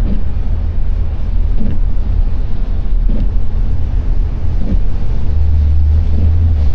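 Car driving on a wet road: a steady low rumble of engine and tyres, with windscreen wipers sweeping about every one and a half seconds.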